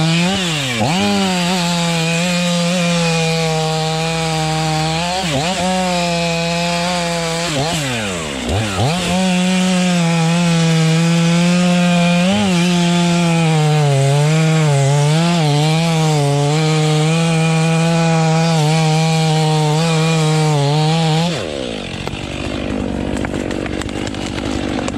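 Chainsaw running at high revs, cutting wood; its engine pitch dips sharply and climbs back a few times. About 21 seconds in it cuts off abruptly to a quieter, rougher noise.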